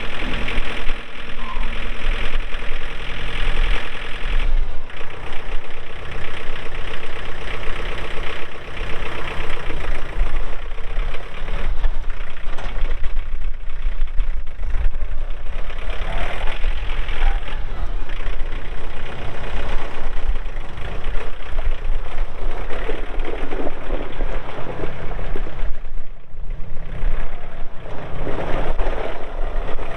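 John Deere 4044M compact tractor's four-cylinder diesel engine running continuously, its sound swelling and easing every several seconds as the tractor is worked.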